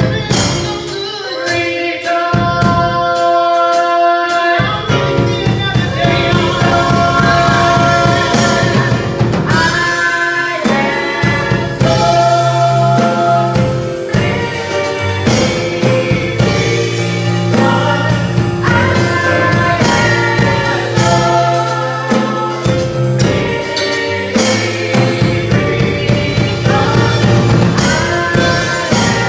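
Gospel choir singing with a band: drums and a steady bass line that comes in about five seconds in.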